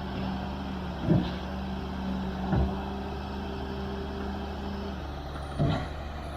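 Heavy diesel equipment engine running steadily, with a few short knocks about a second, two and a half, and five and a half seconds in; the drone eases about five seconds in.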